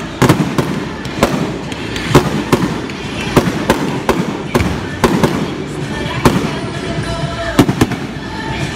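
Fireworks bursting in a quick, irregular run of bangs, about two a second, thinning out near the end, with music playing underneath.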